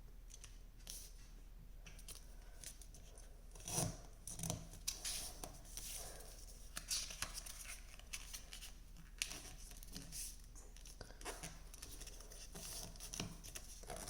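A square sheet of origami paper being folded and creased by hand: faint, irregular rustles and scrapes of paper, the loudest about four seconds in.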